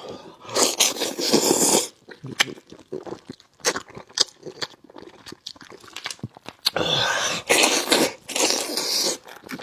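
Close-up eating sounds from braised fish head: two long, loud slurps or sucks, one near the start and a longer one from about seven seconds in, with wet chewing and lip-smacking clicks between.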